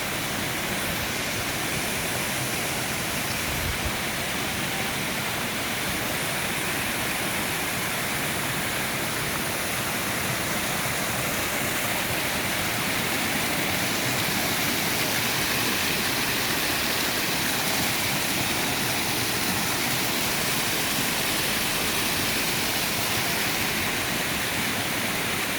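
Flowing water rushing steadily, like a stream or small waterfall.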